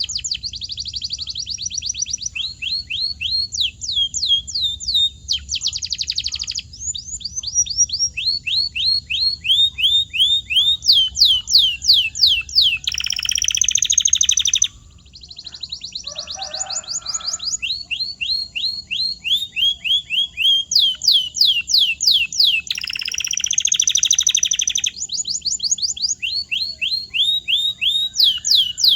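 Canary singing: a long run of quick, falling whistled notes, several a second, broken twice by buzzy rolling trills, with a short pause about halfway through.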